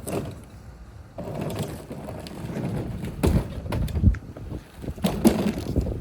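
Irregular rattling and clunking of objects being handled and moved, with a few louder knocks about three, four and five seconds in.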